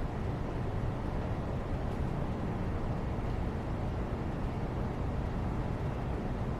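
Steady background noise, a constant low rumbling hiss with no changes or distinct events.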